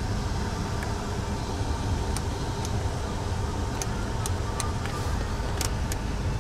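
Steady low idle of the 2014 Haima M3's engine heard inside the cabin, with about nine light clicks from the console's heated-seat switch being pressed and the ashtray lid being handled.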